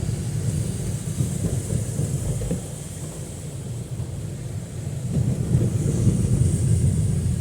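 Heavy rain falling, with a low, uneven rumble under it that dips and then swells again about five seconds in.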